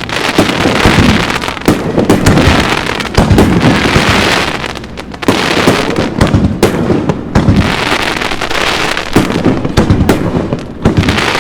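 Fireworks bursting in rapid succession, many loud bangs one after another with crackling between them, the bursts easing off briefly about five seconds in.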